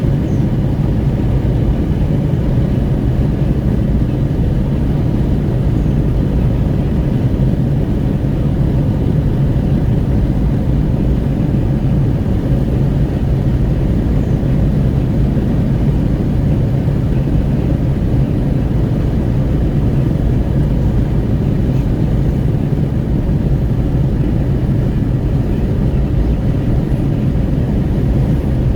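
Steady, loud wind rumble at a car window while a Renault Kwid 1.0 cruises on the highway, mixed with road and engine noise.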